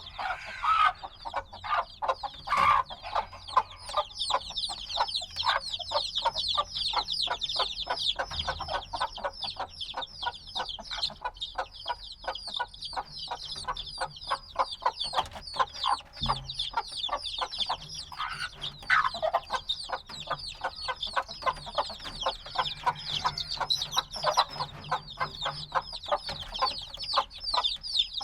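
A brood of newly hatched chicks peeping continuously: many rapid, high, downward-sliding chirps overlapping.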